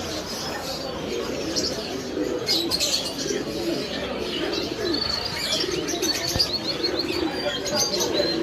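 Many pigeons cooing continuously, with small birds chirping high above them throughout.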